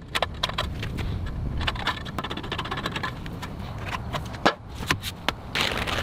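Wooden planks being handled and set in place: irregular knocks, clicks and clatter of wood on wood, over a steady low rumble.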